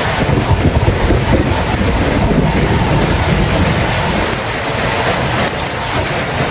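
Steady, heavy rain with a low rumble underneath.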